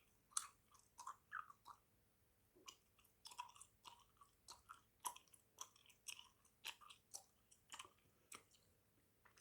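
Close-miked chewing of bubble gum: irregular wet smacks and small clicks of the mouth and gum, several a second with short gaps.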